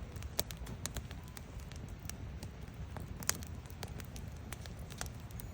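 Firewood burning: the wood crackles with irregular sharp pops, the loudest about three seconds in, over a steady low rumble.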